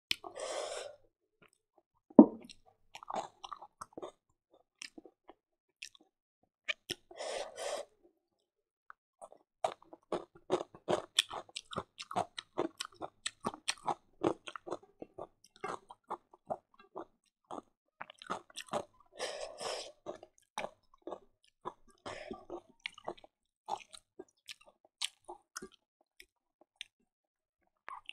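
Close-up chewing and eating sounds: many small wet mouth clicks and smacks, thickest through the middle, with three short hissy sounds near the start, about seven seconds in and about nineteen seconds in.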